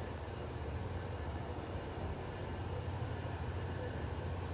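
Diesel commuter-train locomotive running steadily while the train stands at the platform: a low, even rumble.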